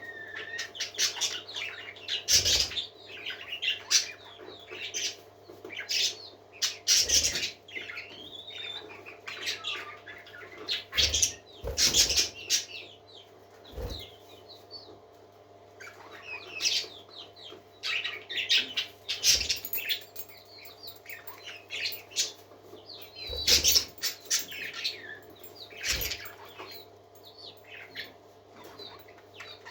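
Several parakeets chirping and warbling in quick, overlapping chatter, with a dozen or so sharp knocks or flutters scattered through it over a steady low hum.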